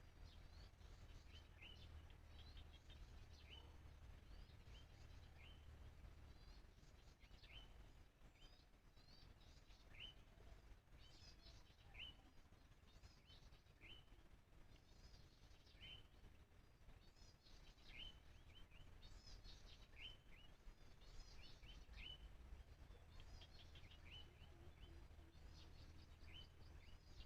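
Wild birds calling in open country: short, sharp, downslurred chirps repeated every second or two, over fainter high twittering. A faint low rumble sits under them, strongest in the first few seconds.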